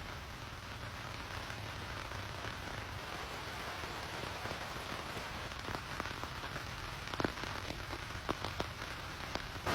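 Steady rain, with single drops tapping sharply on a surface now and then; the loudest drop hits come a little past seven seconds in and several more near the end.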